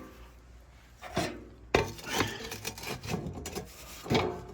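Irregular rubbing and scraping of camp gear being handled, broken by several short knocks, the sharpest a little under two seconds in and another near the end.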